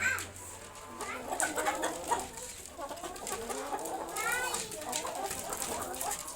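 Broiler chickens clucking in a flock, many short calls overlapping, with a quick run of high rising peeps about four seconds in.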